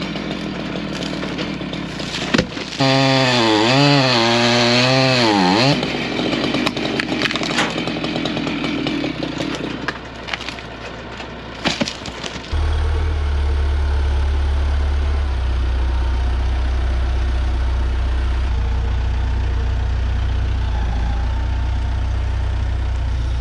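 Chainsaw running and cutting wood, its pitch rising and dipping for a few seconds while under load, then settling. About halfway through, a heavy engine's steady low idling hum comes in and carries on.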